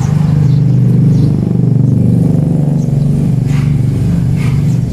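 A small engine running with a steady, loud drone.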